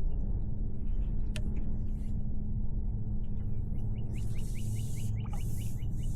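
Steady low rumble of wind buffeting the microphone. Over the last few seconds a quick run of short high chirps, about five a second, comes with bursts of splashy hiss.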